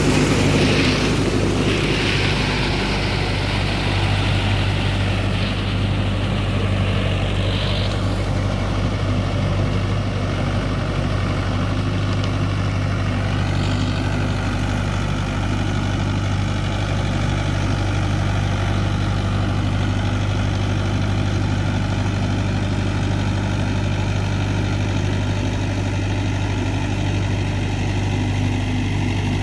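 Mahindra Yuvo Tech+ 585 tractor's three-cylinder diesel engine running at a steady speed.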